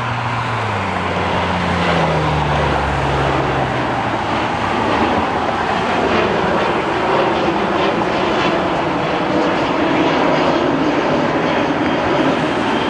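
Jet airliner engines running loud and steady, with a low hum that drops in pitch over the first few seconds as the aircraft goes past.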